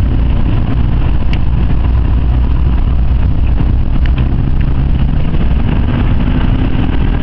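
Jaguar XJ's 5.0-litre supercharged V8 running hard at speed, heard from inside the cabin as a loud, steady low rumble of engine and road noise. The engine note rises in the second half.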